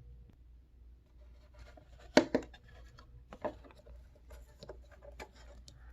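Light handling noises in a small room: scattered clicks, taps and rustles, with a sharper knock about two seconds in and another a second later.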